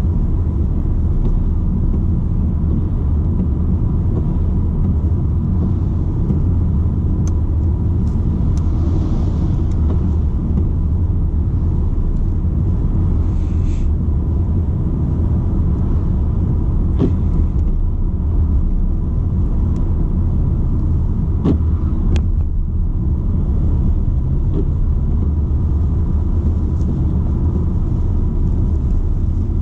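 Steady low rumble of a BMW 120d's four-cylinder diesel engine and its tyres on the road while driving, with a few faint clicks about two-thirds of the way through.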